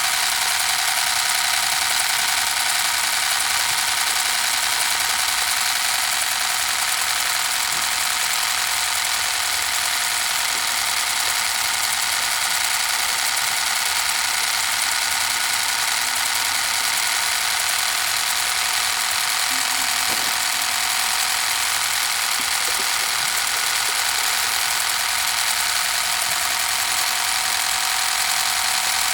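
Small gasoline engine of a mini water pump running steadily at constant speed, a high-pitched buzz that holds the same pitch throughout.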